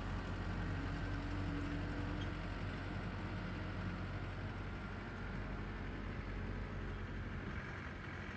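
Tractor engine running steadily while driving a power rake through worked ground.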